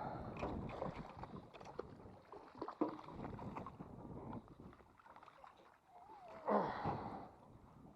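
Shallow water splashing and sloshing as a hooked redfish is brought in, with wind on the microphone and a louder burst about six and a half seconds in.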